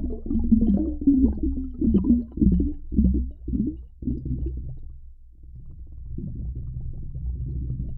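Seals calling: a series of short, low, wavering grunts and moans, followed from about six seconds in by a steadier low rumbling call.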